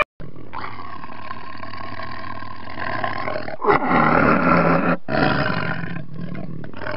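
Tiger roaring and growling in long, rough, drawn-out stretches with short breaks, loudest about four seconds in.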